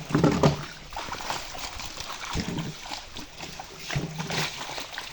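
Water splashing and sloshing in three separate splashes, about half a second, two and a half seconds and four seconds in.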